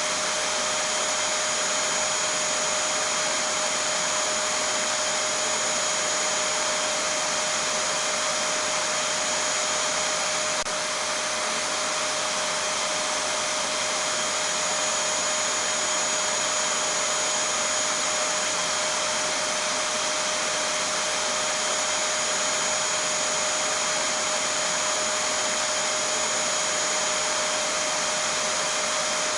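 Vacuum cleaner running continuously: a steady, monotonous rush of air with a constant motor whine, unchanging in pitch or level.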